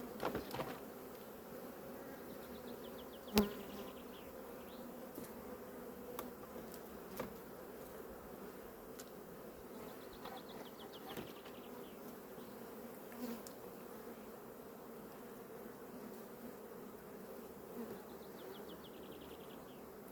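Honeybees buzzing steadily around an opened hive, the colony upset by the inspection. A sharp knock about three and a half seconds in, with a few lighter clicks, from the hive's wooden parts being handled.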